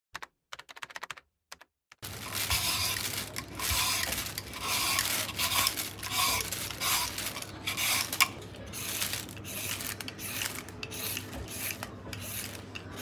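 Raw carrot being crunched and chewed close to the microphone: repeated crisp crunches about one or two a second, starting about two seconds in.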